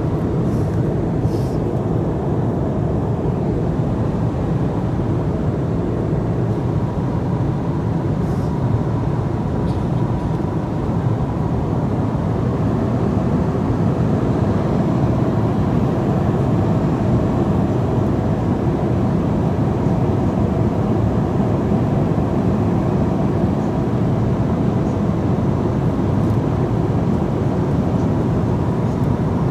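Airliner cabin noise in flight: the steady, even rumble of the engines and airflow, deepest in the low end. A faint steady tone joins it about ten seconds in.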